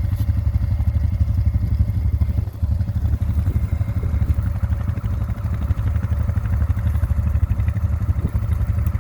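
ATV engine running steadily with a fast, even low pulse.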